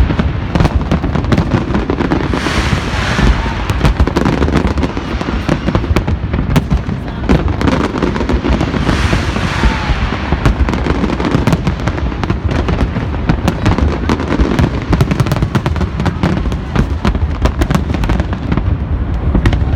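Fireworks display going off in a dense, continuous barrage of rapid bangs and crackles, with swells of hissing crackle about three seconds in and again around nine seconds.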